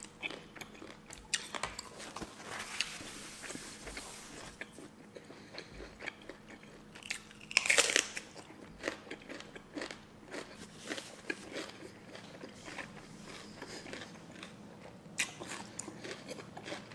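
Close-miked eating: moist chewing of a seafood salad, then about eight seconds in a loud crisp bite into a raw red bell pepper slice, followed by crunchy chewing with many small clicks.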